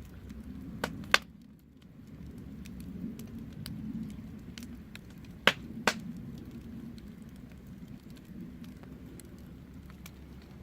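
Wood fire burning with a steady low rumble and scattered crackles, with two sharp pops about a second in and another pair of pops about five and a half seconds in.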